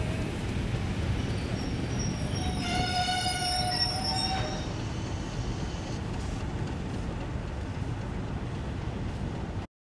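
Passenger railway carriage running, a steady low rumble from the wheels on the track. About three seconds in, a high-pitched tone sounds for under two seconds and stops. The sound cuts off suddenly just before the end.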